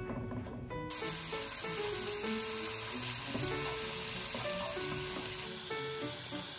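Minced garlic sizzling in hot cooking oil in a frying pan, stirred with a wooden spoon; the sizzle starts suddenly about a second in and then holds steady, over background music.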